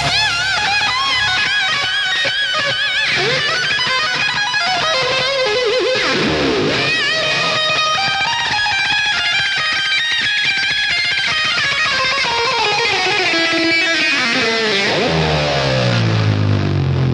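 Background music: an electric guitar solo full of vibrato and string bends, with a long descending run in the middle and deep swooping falls and rises in pitch near the end.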